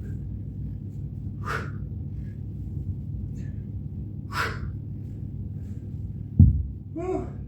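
A man breathing hard through an exercise set: two forceful exhales over a steady low rumble, then a heavy thump about six seconds in and a short voiced grunt just after it.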